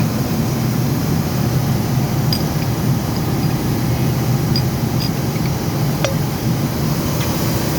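Steady, loud machinery drone, low-pitched and unchanging, with about five light metallic clinks scattered through it.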